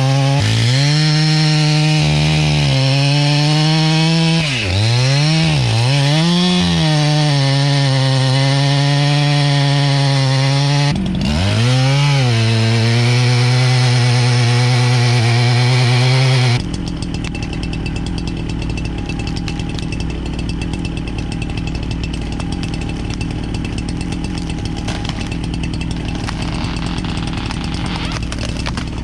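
Two-stroke chainsaw running at full throttle cutting through wood. Its pitch dips sharply and recovers twice as the chain bogs down in the cut. About two-thirds of the way in the chainsaw cuts off abruptly, and a quieter, steady rumbling noise follows.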